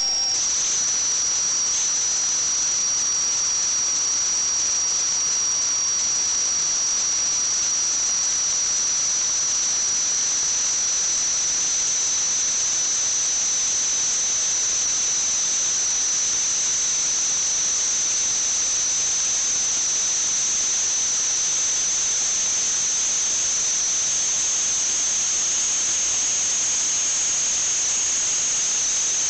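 A steady high-pitched whine over a hiss, creeping very slightly up in pitch.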